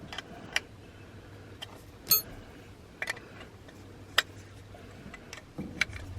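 A wrench tightening a ferrule compression fitting on a gauge hose: scattered small metallic clicks and clinks at irregular spacing, with one louder ringing clink about two seconds in.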